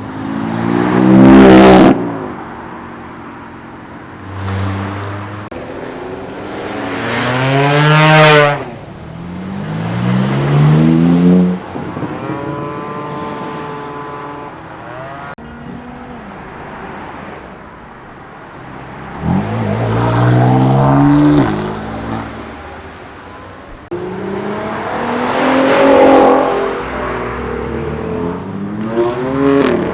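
A series of about six cars accelerating hard past one after another, their engine notes rising in pitch as they rev up, some breaking off at gear changes. The loudest pass comes just after the start, with another loud one about eight seconds in.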